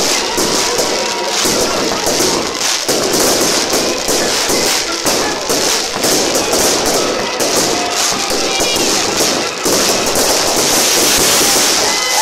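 Fireworks display going off: dense, continuous crackling and popping from the shells, with no break.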